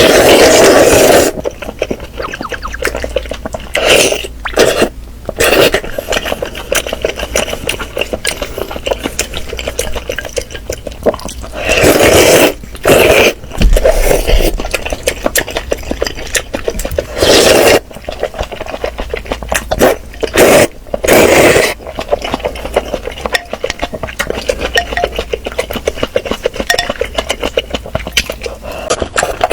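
Close-miked eating sounds: chewing and slurping of chicken and chili soup in irregular loud bursts, with many small clicks and clinks of utensils against the bowl.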